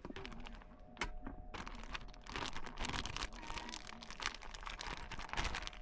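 Irregular crinkling and rustling of plastic food packaging, with small clicks and knocks, as raw meat is handled and seasoned.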